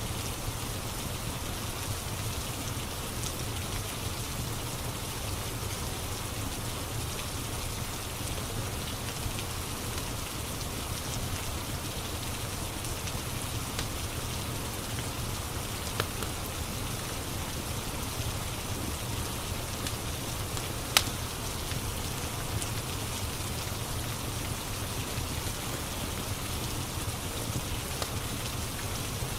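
Steady rain on a surface, with a fireplace crackling over it: a few sharp pops, the loudest about two-thirds of the way through.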